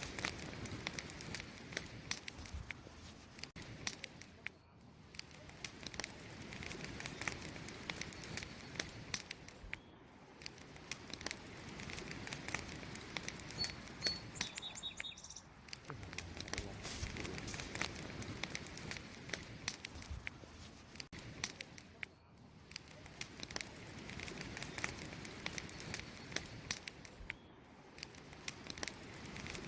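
Wood fire crackling: dense sharp pops and snaps over a steady hiss, the whole sound fading down and swelling back every five or six seconds.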